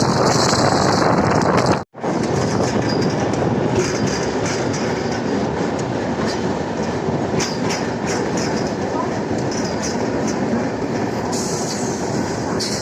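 Suburban electric multiple-unit local train running along the track: a steady rumble of wheels on rail with scattered clicks over the rail joints. The sound cuts out for an instant about two seconds in, then carries on.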